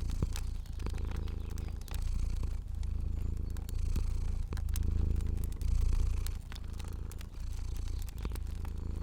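A cat purring steadily in a deep rumble that swells and eases about once a second with its breathing, with sharp crackles from a wood fire scattered over it.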